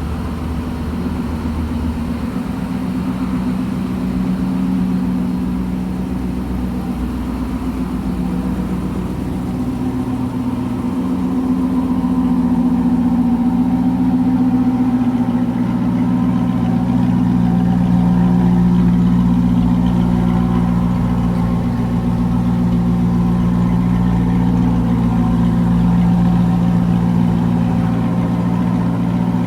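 Aston Martin V8 Vantage's 4.7-litre V8 idling steadily through its exhaust, a little louder from about eleven seconds in.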